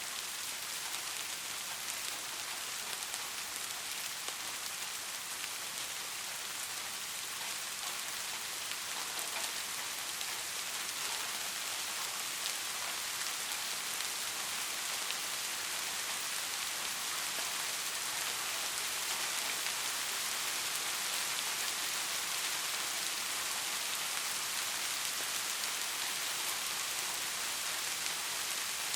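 Steady rain falling on surfaces: an even hiss made of many fine raindrop patters, with no thunder.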